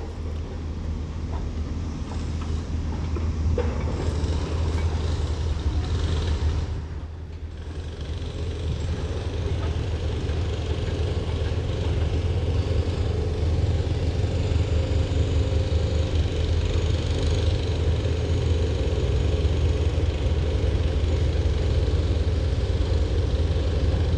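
Steady low rumble with a hiss over it, of the kind heard from a vehicle on the move; it dips briefly about seven seconds in, then builds slowly.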